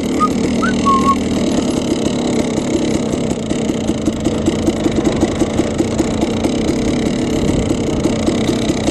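KTM 300 two-stroke dirt bike engine running as the bike is ridden through mud. It runs loud and steady, with a quick even pulsing of about five beats a second through the middle and later part.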